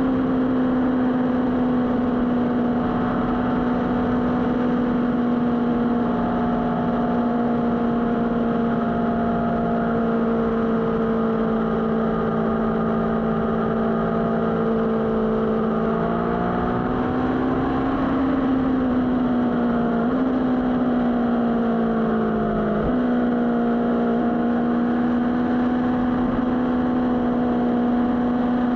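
Motorcycle engine running at a steady pitch. Past the middle it rises and falls over a few seconds, then jumps in small sudden steps twice before settling again.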